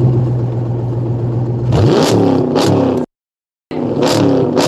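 Hemi V8 through a Flowmaster cat-back exhaust, idling steadily, then revved in quick blips from about two seconds in. The sound cuts out completely for about half a second, then the quick revs resume.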